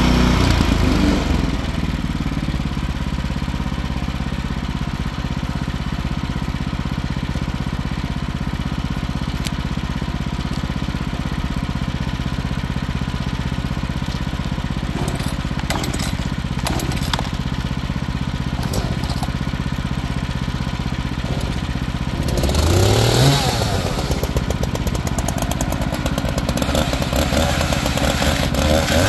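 Wood-Mizer band sawmill's engine running steadily, with a few sharp clicks in the middle. About 22 seconds in the engine revs up and the band blade starts cutting into the log, louder and noisier.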